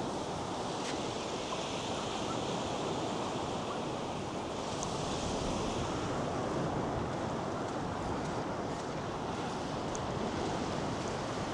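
North Sea surf breaking and washing on a sandy beach, a steady rush that swells a little about halfway through, with wind buffeting the microphone.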